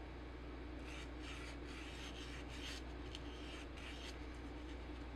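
Hands working over jacket fabric and zipper tape: a run of short scratchy rubbing strokes for about three seconds, over a steady low hum.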